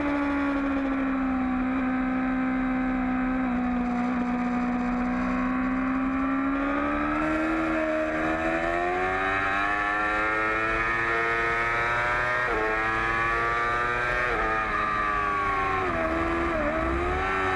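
2008 Yamaha R6's inline-four engine running at high revs, heard from an onboard camera. Its pitch sags slowly through a long corner, then climbs as the bike accelerates, dipping briefly three times in the second half as it shifts up.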